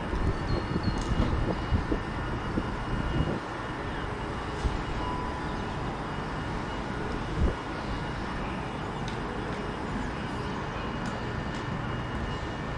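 Steady low rumble of a distant passenger train approaching along the line, with uneven low surges in the first few seconds and a few soft knocks.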